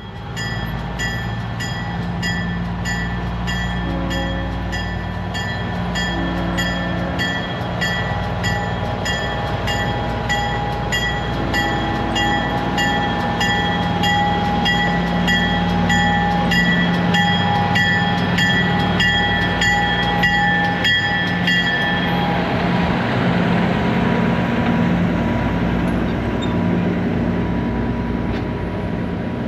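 Diesel locomotive running steadily, with a bell ringing in an even rhythm of about two strokes a second that stops about three-quarters of the way through.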